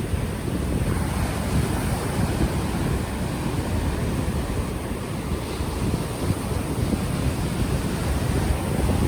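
Ocean waves washing onto the shore, mixed with a steady low rumble of wind buffeting an unshielded microphone.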